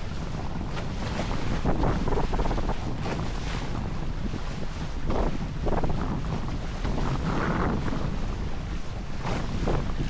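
Wind buffeting the microphone over the rush and splash of water past the hull of a sailing trimaran under way, with irregular louder surges every second or two.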